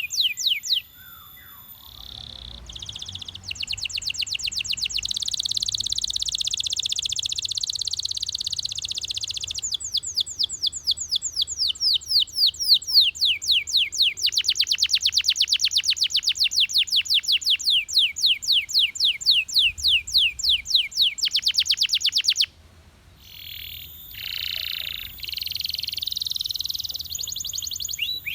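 Male Belgian canary singing: long runs of rapid trills made of fast, evenly repeated notes that sweep downward, with a dense rolling passage in the first third and a short break near the end.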